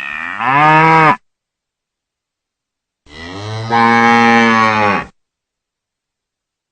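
A cow mooing twice: a short moo about a second long whose pitch rises and falls, then a longer, steadier moo of about two seconds.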